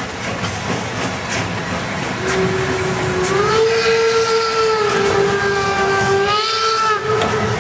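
Steam locomotive whistle blown once for about five seconds, starting about two seconds in, its pitch lifting slightly as it opens fully and dipping as it closes, over a steady hiss of steam.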